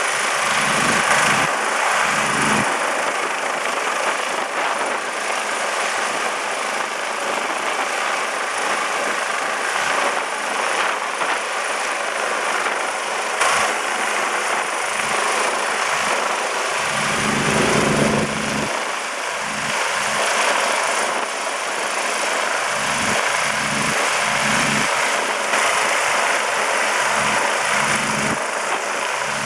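Rescue helicopter running, a steady rotor chop and turbine noise, with deep rumbles coming and going several times.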